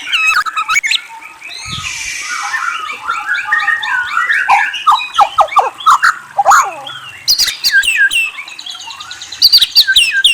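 Murai songbird singing a loud, varied song of whistles and trills, with a brief harsh rasping note about two seconds in and quick, sharp down-slurred chirps toward the end.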